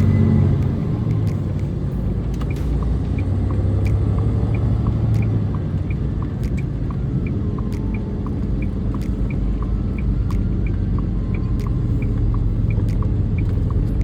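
Steady engine and road rumble inside a 2022 International semi truck's cab while driving, with a turn signal ticking evenly about one and a half times a second from about two seconds in.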